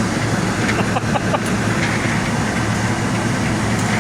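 1965 Sears Coldspot 18,500 BTU window air conditioner running on fan only, its compressor not yet started: a steady rush of air from the blower over a low motor hum.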